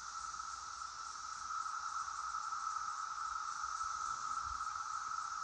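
Chorus of cicadas buzzing, a steady unbroken drone with a higher hiss above it.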